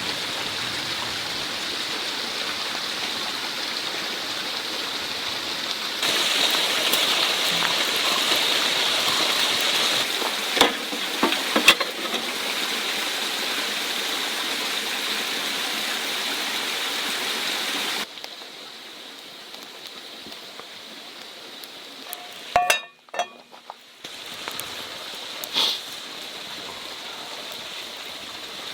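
Food sizzling in a pan over a wood campfire: a steady hiss that jumps in level at a few cuts. A few sharp clicks come about ten to twelve seconds in.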